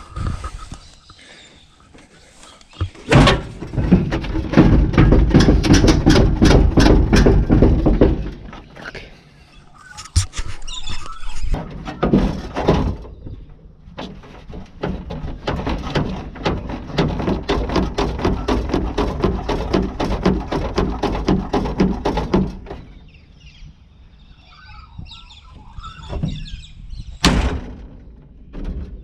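A tool working through the last bit of steel holding a car body part on, in two long runs of fast, rhythmic metal-on-metal strokes, the first about three seconds in and the second longer; a single sharp bang comes near the end.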